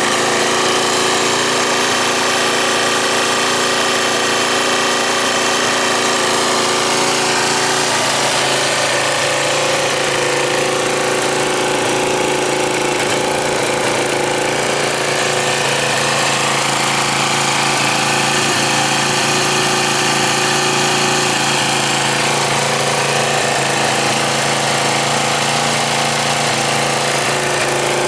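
Suzuki Grasstracker's single-cylinder four-stroke engine idling steadily through an aftermarket muffler. The pitch wanders slightly a few times.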